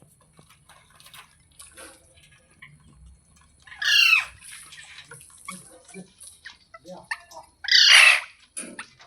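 Pet parrot squawking: two loud, harsh calls, one about four seconds in and one near the end, with soft chirps and clicks in between.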